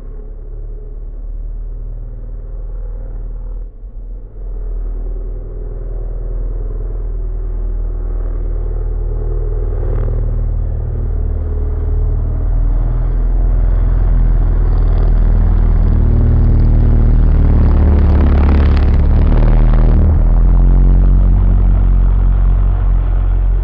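A car sound reworked into a horror effect: a deep, heavy rumble with little treble that swells steadily louder, with a brief dip about four seconds in.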